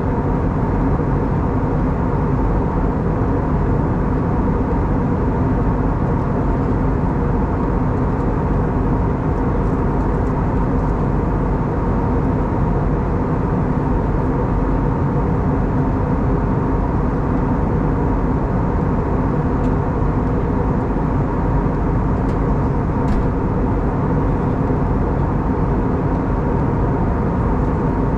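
Steady cabin noise of an Airbus A320neo (CFM LEAP-1A engines) in flight: an even rush of airflow and engine noise with a few constant hums underneath.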